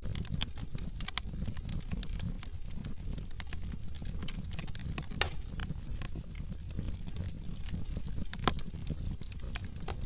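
Wood fire burning in a fireplace: irregular crackles and pops over a low, steady rumble of flames, with two sharper pops about five seconds in and near the end.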